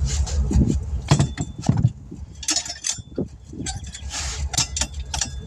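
Metal tools and parts being handled during tire work: an irregular run of clinks, knocks and jangles over a low steady rumble.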